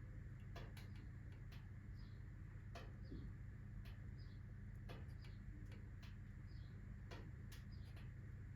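Wood fire of alder, birch and oak logs burning in a fireplace, crackling faintly with sharp, irregular pops about once or twice a second over a low steady hum.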